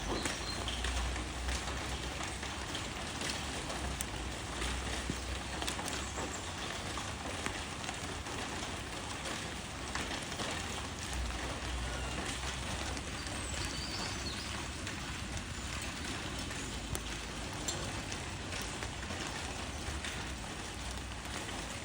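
Rain falling on leaves: a steady hiss of rain with many separate drops ticking, over a low rumble.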